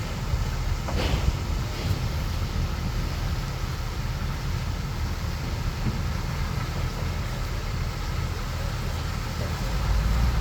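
Bulldozer's diesel engine running steadily with a low rumble, with a brief knock about a second in.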